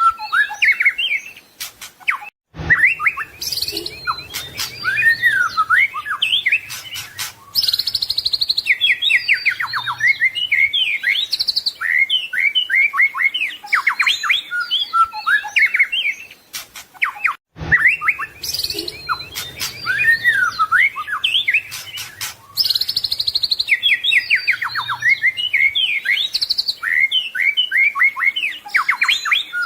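White-rumped shama (murai batu) singing a rapid, varied song of whistles, trills and quick sliding notes. It is a looped recording that cuts out briefly about two and a half seconds in and again about seventeen seconds in, starting the same stretch of song over each time.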